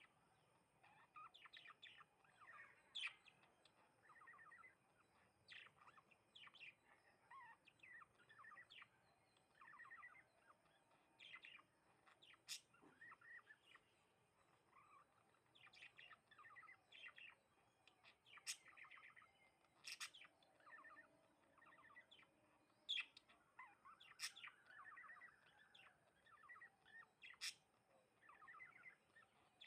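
Sparrows chirping: short, sharp chirps in quick runs, a few every second, faint.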